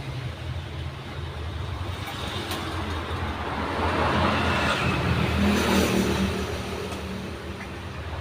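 Motor vehicle engine noise from passing road traffic, a steady low hum that swells in the middle and then fades.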